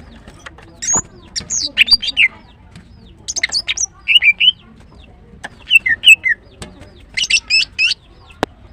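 Female greater green leafbird calling: clusters of short, high chirps and quick whistled slides, about six bursts separated by brief pauses, with a single sharp click near the end.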